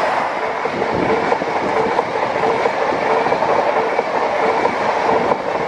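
HST diesel train passing close underneath at speed, its coaches rushing by with the steady loud noise of wheels on the rails.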